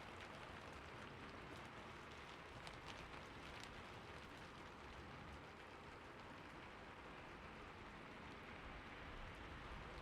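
Faint, steady rain falling, a soft even hiss with a few light drop ticks.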